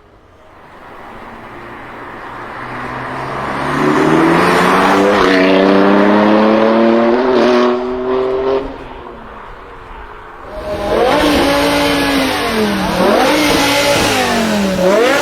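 BMW performance car engine accelerating hard. The engine note climbs steadily, falls away briefly about halfway through, then comes back with its pitch rising and dipping several times, as with quick gear changes.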